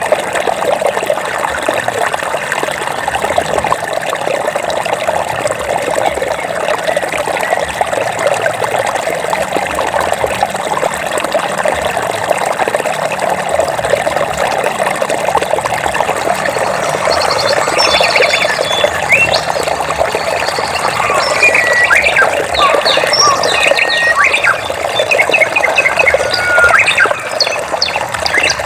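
Stream water running and splashing steadily, with small birds chirping over it from about two-thirds of the way in.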